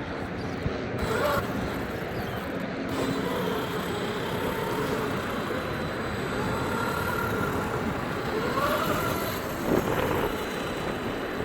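Wind rushing over the microphone, with the faint whine of an RC truck's electric motor rising and falling several times as it drives.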